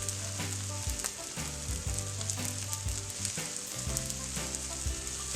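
Fried rice sizzling in a hot wok as it is stir-fried with the seasonings, a metal spatula clicking and scraping against the wok now and then. Soft background music underneath.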